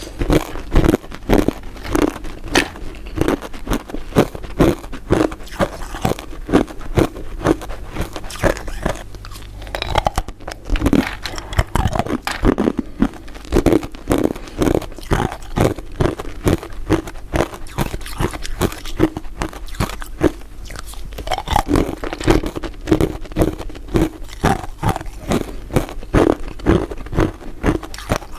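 Close-up crunching and chewing of crisp, translucent crystal ice dessert pieces: rapid crunches, several a second, with a short lull about ten seconds in.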